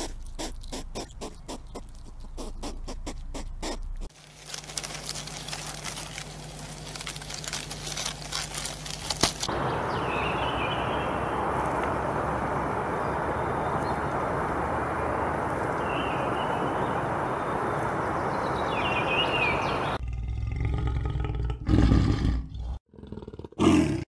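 A run of quick clicks, then a long steady rushing noise with a few faint chirps. Near the end a tiger growls in two loud bursts.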